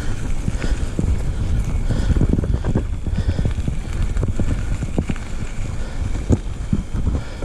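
Wind rumbling on the microphone during a ride along a trail, with frequent irregular knocks and thumps over it.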